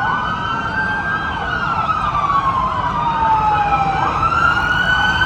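Police sirens wailing: a slow glide falling in pitch for about three seconds, then rising again about four seconds in, with a second siren overlapping.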